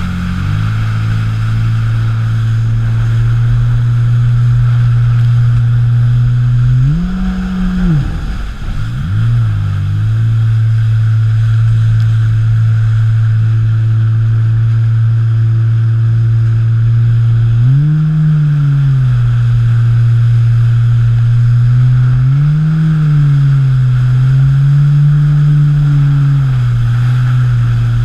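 Modified 220-horsepower jet ski engine running hard at a steady pitch, which rises and falls back several times as the throttle is worked, dropping away and picking up again once near the start. A steady rush of water and wind runs underneath.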